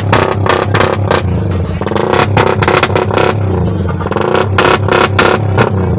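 Suzuki Satria F150's single-cylinder 150 cc four-stroke engine revved hard on the stand in rapid, repeated throttle blips, loud and crackling throughout.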